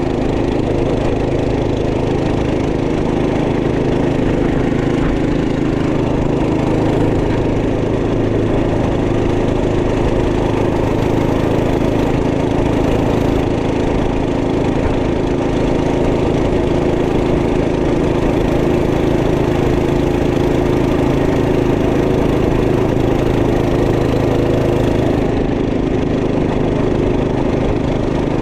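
Single-cylinder four-stroke 212cc engine of a Trail Master MB200 minibike running at a steady speed under way.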